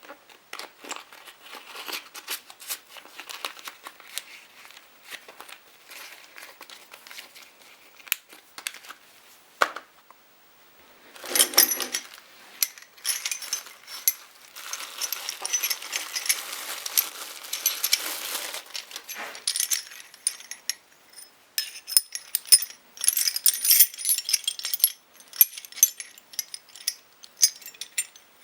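Small metal parts clinking and rattling as they are handled, with stretches of crinkling packaging.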